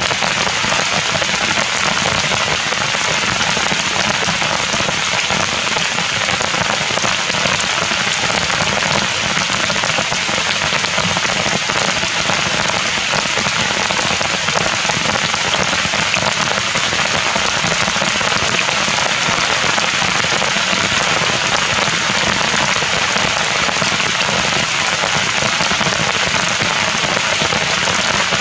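Heavy rain falling steadily on the ground and leaves, an even hiss with no breaks.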